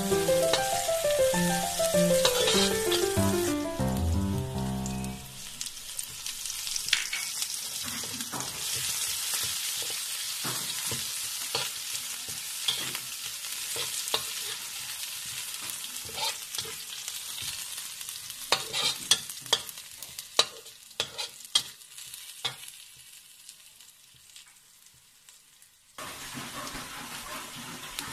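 Food sizzling and frying in a pan, with a utensil stirring and clicking against it; the clicks come thickest in the second half. Background music plays over the first few seconds.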